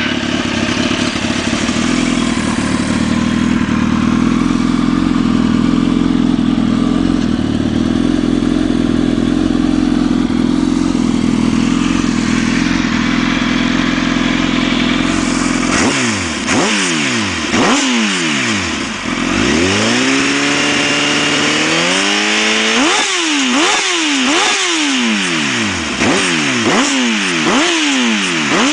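2007 Kawasaki Ninja ZX-10R's inline-four engine through an Akrapovic carbon full race exhaust, idling steadily for the first half. Then it is revved: a string of sharp throttle blips rising and falling, one slower climb held in steps, then quicker blips near the end.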